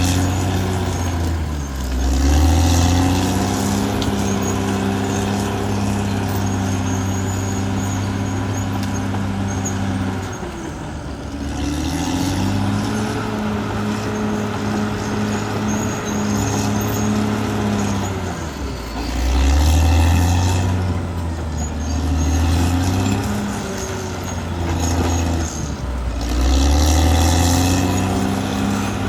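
Caterpillar D6R XL bulldozer's diesel engine running hard. Its note sags and picks back up four times, about every eight seconds, as the engine lugs under load and then recovers.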